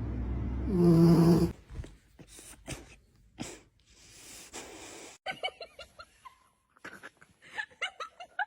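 Sounds of a dog: a loud low steady drone that cuts off about a second and a half in, then scattered short noises, and a run of brief high-pitched squeaks in the second half.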